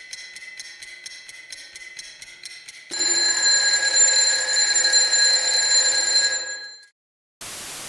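A ringing alarm: first a quieter rapid ticking with a steady high tone, then about three seconds in a louder continuous high ringing that lasts about four seconds and cuts off suddenly.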